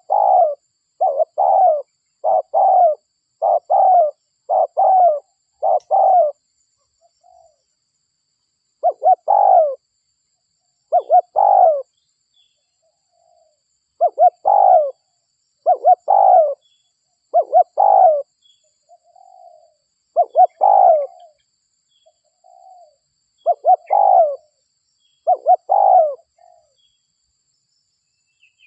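Spotted dove (derkuku) cooing over and over in full song: runs of loud, rounded coos, about one a second for the first six seconds, then in groups of two to four with short pauses. Quieter, shorter coos fall in some pauses, and faint high chirps come now and then.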